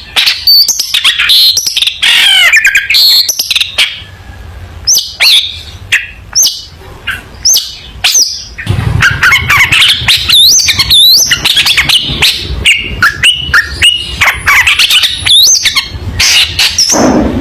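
Long-tailed shrike (cendet) singing vigorously: a fast, loud jumble of harsh chattering notes, sharp clicks and quick whistled glides, with a brief pause about four seconds in.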